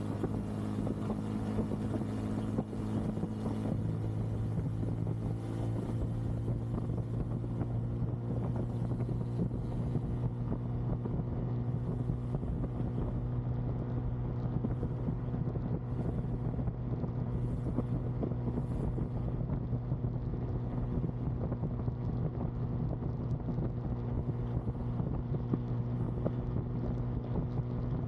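Bajaj Pulsar N250's single-cylinder engine running steadily at cruising speed, with wind buffeting the helmet microphone.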